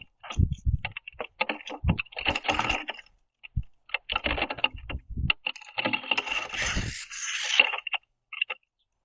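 Birds at a wooden platform feeder: an irregular run of sharp clicks and taps from beaks pecking and cracking seed and feet on the wood. A longer scratchy flurry comes about six to seven and a half seconds in.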